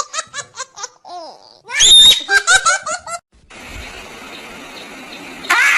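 A small child laughing hard, twice: each time a high squeal breaking into a quick run of short laughs. After about three seconds the laughter stops and only a faint steady noise remains.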